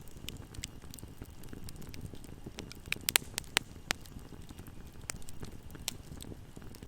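Fire in a fireplace crackling, over a steady low rumble of burning. Sharp pops come at irregular intervals, with a quick run of louder pops about three seconds in.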